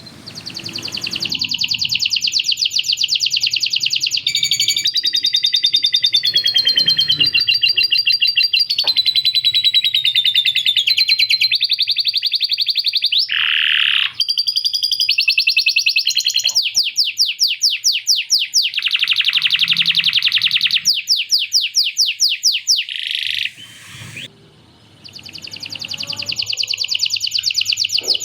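Male canary singing a long, continuous song of fast trills and rolls, with lovebird-style chattering phrases worked into it. It breaks off briefly near the end, then starts again.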